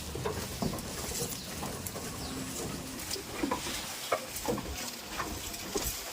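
Goats moving about and feeding, making scattered light clicks, taps and rustles at an irregular pace, with a brief low steady tone about two seconds in.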